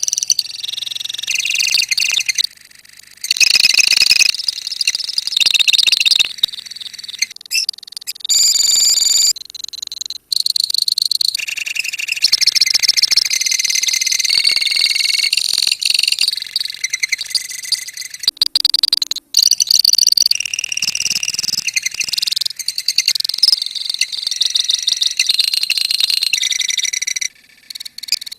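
A colony of lovebirds chattering and chirping together in a dense, high-pitched, rapid stream, broken by a few sudden brief drop-outs.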